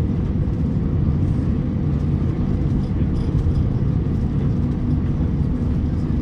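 Cabin noise of an Airbus A350-900 taxiing: a steady low rumble and hum from its Rolls-Royce Trent XWB engines at taxi power, heard from inside the passenger cabin.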